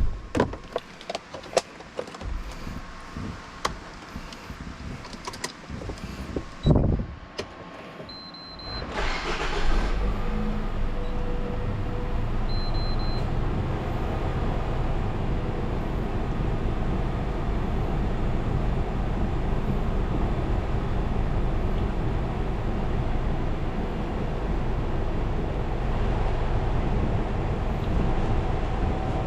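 Clicks and a thump, then the Nissan Serena's four-cylinder petrol engine is cranked and starts about nine seconds in, settling into a steady idle on its freshly fitted spark plugs and ignition coils. Two short high beeps sound around the start.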